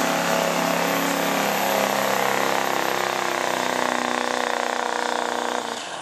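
Chevrolet four-wheel-drive pickup's engine running hard at high revs, holding steady under load as it pulls the sled down the track. Near the end the engine sound drops off sharply as the throttle comes off and the run ends.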